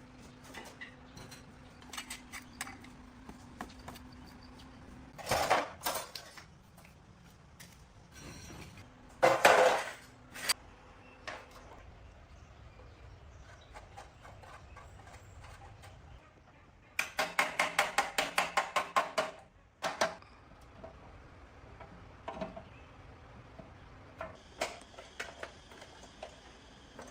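Metal tools and parts clinking and knocking during workshop repair work, with scattered clicks, two louder clatters, and a quick run of about a dozen rapid, evenly spaced metallic strikes about two-thirds of the way through.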